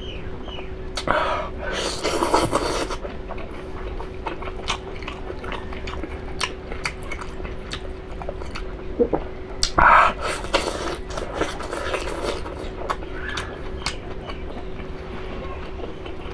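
Close-up chewing and biting of cooked beef innards: a run of wet smacking clicks, with two louder, longer bursts about 2 and 10 seconds in. A faint steady hum runs underneath.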